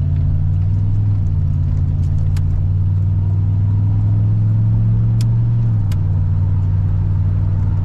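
Chevrolet V8 engine heard from inside the cabin while driving: a steady low hum at cruise whose pitch drops about two-thirds of the way through. A few light clicks sound over it.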